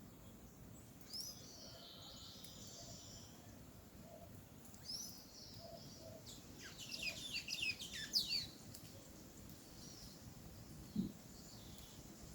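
Small birds chirping at a seed feeder: a single chirp about a second in, another near 5 s, then a quick run of chirps in the middle. A brief low thump follows later.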